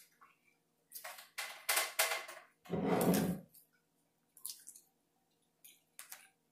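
Close-miked chewing of deep-fried, breaded snow crab: a run of short crisp, wet mouth noises, with one louder, fuller burst about three seconds in and a few small clicks near the end.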